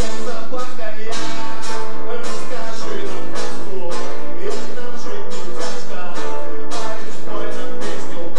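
Music: a guitar strummed in a steady rhythm, playing a song.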